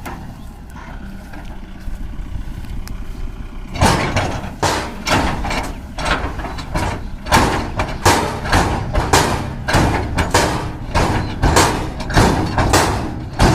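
Kubota MU5501 tractor's diesel engine running steadily. From about four seconds in, loud regular rushing pulses, about two a second, come in on top of the engine and dominate.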